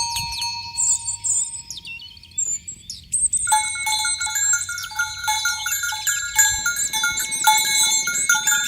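Small bells clinking and ringing irregularly, several pitches sounding together, growing busier about three and a half seconds in. Birds chirp and whistle in the first few seconds.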